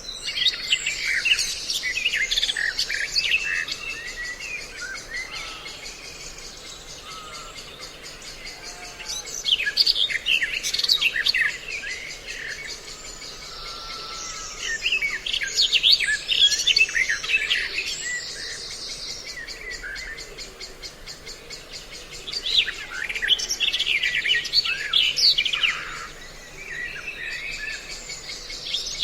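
A mixed recording of several songbird species calling and chirping, used as a bird-trapping lure. The calls come in four or five dense, loud clusters of quick chirps and whistles, with quieter spells between. A steady high buzz runs underneath.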